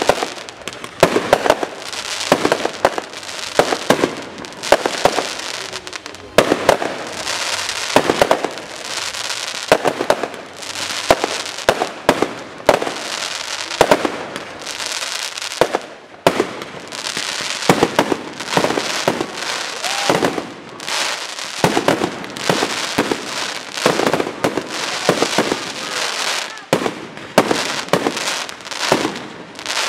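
Aerial fireworks display: a dense run of sharp bangs from bursting shells, at times several a second, over a steady crackling hiss of glittering stars.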